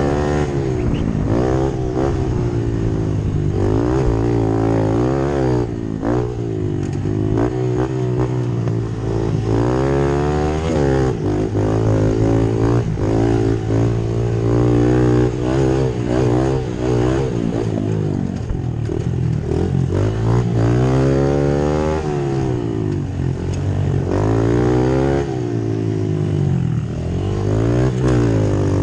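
Pit bikes racing: small motorcycle engines revving up and down over and over as the throttle is opened and closed, each rise in pitch lasting a second or two.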